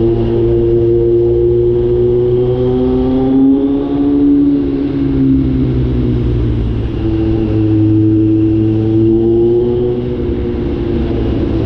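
Kawasaki Z900 inline-four motorcycle engine running under way through a catalytic-converter-deleted exhaust, its pitch holding steady, dropping a few seconds in, then climbing again toward the end as the throttle changes.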